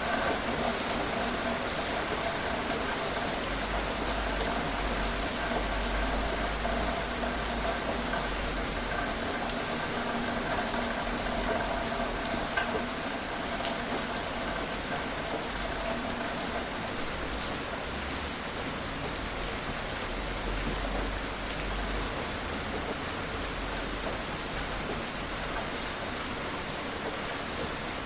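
Gentle rain falling steadily, an even hiss of rain on surfaces with scattered individual drop ticks.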